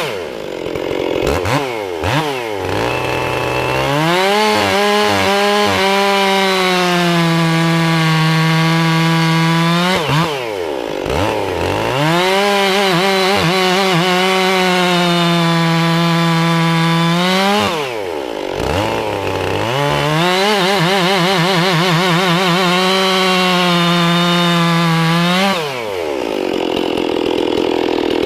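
Two-stroke chainsaw cutting wood at full throttle with a freshly sharpened chain: three runs of about six seconds each, the engine easing off briefly between them.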